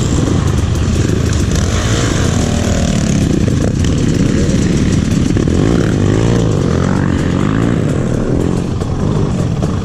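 Motorcycle engine running on a trail ride, its pitch rising and falling as the throttle changes, over a steady rushing noise.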